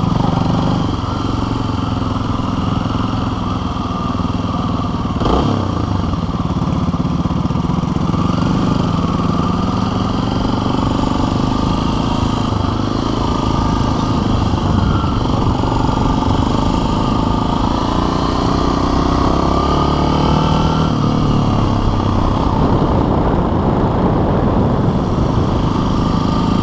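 Motorcycle engine running at low speed, its revs rising and falling gently as the bike weaves through a line of cones.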